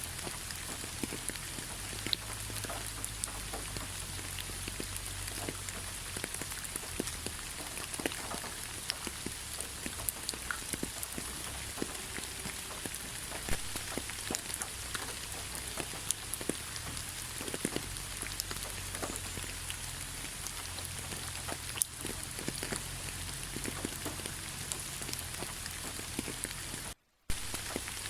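Steady rain falling, a continuous hiss with many separate drops ticking close by. The sound drops out completely for a split second near the end.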